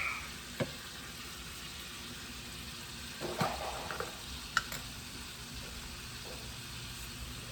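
Sofrito sizzling gently in a pot, a steady hiss, with a few light clicks and taps from a spoon as spices go in.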